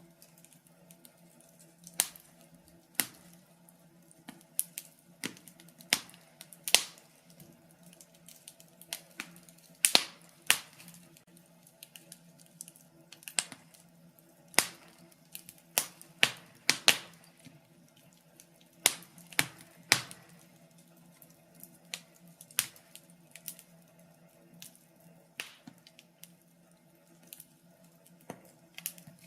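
Wood fire burning in a fireplace, crackling with irregular sharp pops and snaps a few times a second, some louder than others, over a faint steady low hum.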